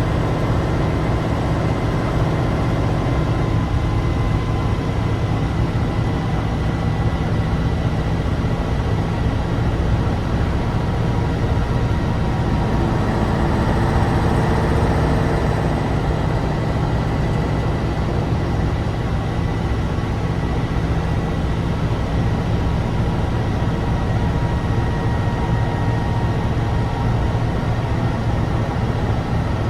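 Tatra 815's air-cooled, naturally aspirated V10 diesel running under way, a deep steady drone that swells slightly about halfway through.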